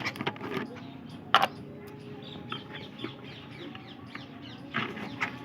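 A flock of small birds chirping in many quick, short, falling calls while waiting to be fed, with one sharp knock about a second and a half in.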